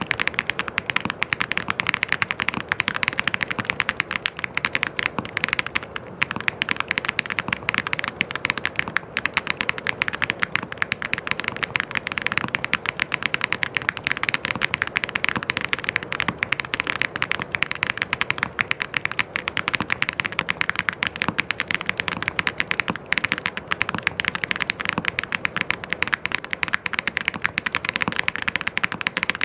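Fast, continuous typing on a mechanical keyboard: a dense, unbroken stream of key clicks and clacks at many strokes a second.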